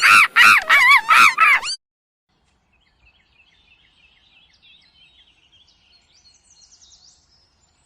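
A rapid series of loud, arching bird calls, several a second, cutting off sharply about two seconds in. Then faint, high chirping of small birds.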